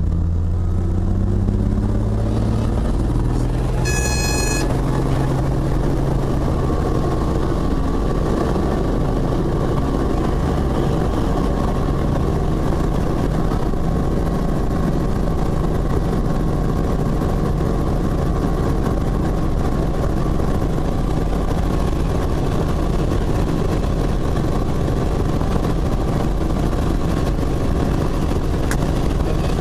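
Helicopter engine and rotor spooling up, the pitch rising over the first few seconds, then running at a steady pitch. A short electronic beep sounds about four seconds in.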